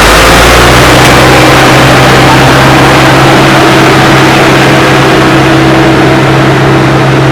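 Truck engine running steadily: a loud, even drone with a constant low hum.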